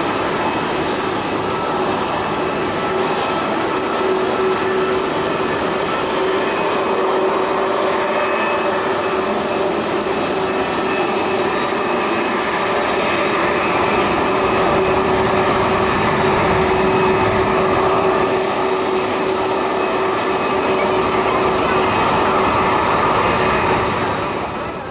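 Jet airliner engines running loud and steady, a noise with several whining tones in it, growing a little louder past the middle and fading out at the end.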